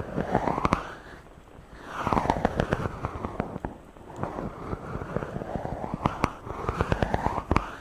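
Fingers rubbing directly on a microphone in slow back-and-forth strokes, each a sweeping swish that rises or falls in pitch over a second or two, thick with scratchy crackles and clicks.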